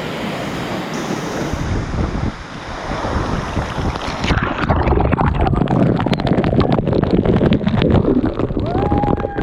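Steady rushing roar of falling water, with wind buffeting and crackling on the microphone from about four seconds in. A short pitched call arches and falls away near the end.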